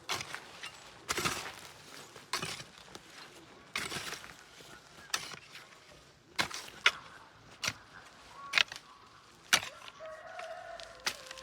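A series of sharp hand-tool blows, roughly one every second or so, from work on a garden fence.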